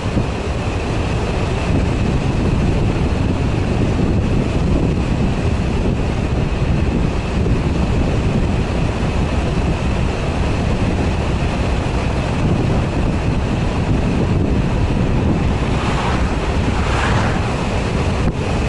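Loud wind buffeting the microphone: a steady, dense rumble with a faint thin whine above it.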